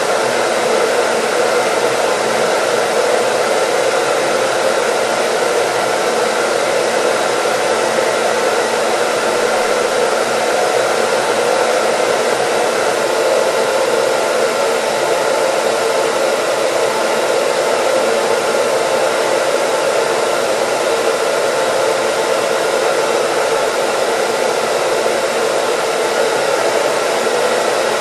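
Hair dryer running steadily as white noise: an unbroken rush of air with a faint steady motor hum, never changing in level.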